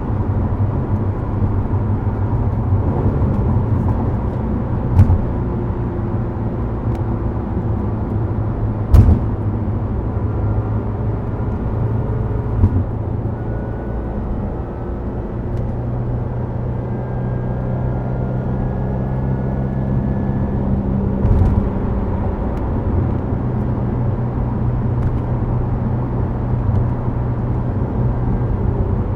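Subaru WRX STI Spec C's turbocharged flat-four running at a steady cruise through an aftermarket A-RM muffler, a low even drone with tyre and road noise, heard from inside the cabin. A few sharp knocks cut through, the loudest about nine seconds in.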